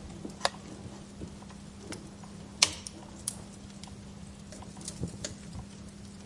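Firewood burning in a fireplace, crackling with irregular sharp pops and snaps; the loudest snap comes about two and a half seconds in. A faint steady hum runs underneath.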